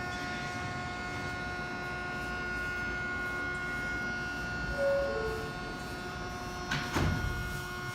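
Inside a New York City subway car: steady rumble and hum with a constant electrical whine. About five seconds in comes a brief falling two-note tone, and about seven seconds in a short loud bang.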